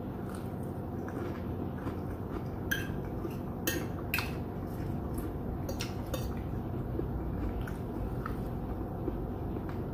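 An eating utensil clinking against a dish a handful of times, in short sharp clicks over a steady low background noise.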